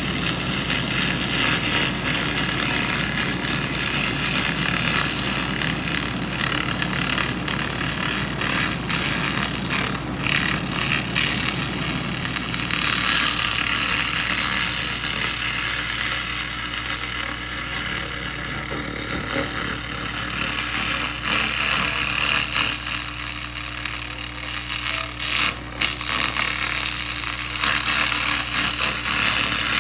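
SFX 2000 laser rust remover running and stripping rust from metal: a hiss that swells and fades, with scattered sharp crackles, over the steady low hum of the machine.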